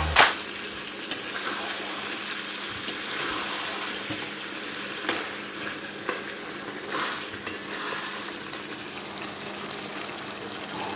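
Chicken and potato curry sizzling steadily in a metal kadhai as it is stirred, with a few clinks and scrapes of the metal spatula against the pan.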